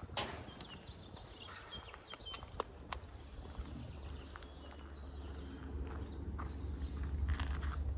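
Small birds chirping outdoors, with a few sharp clicks about two to three seconds in and a low rumble building in the second half.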